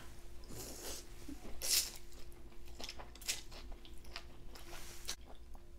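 Someone biting and chewing food close to the microphone, with soft, irregular crunching clicks.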